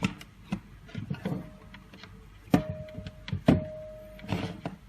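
Hands working cables and connectors on a small electronics module: a run of sharp clicks and knocks, the two loudest about two and a half and three and a half seconds in, each followed by a brief ringing tone.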